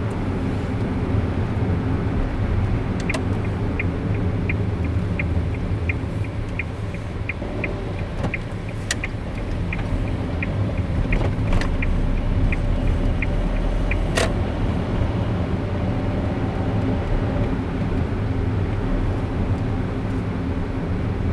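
A car driving, with steady road and engine rumble. A turn-signal indicator ticks about one and a half times a second for roughly ten seconds, starting about three seconds in, with a sharp click as the ticking starts and another as it stops.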